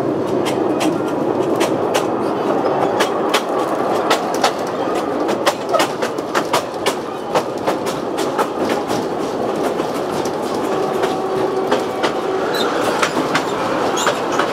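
Open-sided narrow-gauge railway carriages running along the track, heard from on board: a steady rattling rumble with many sharp, irregular clicks and clacks from the wheels on the rails.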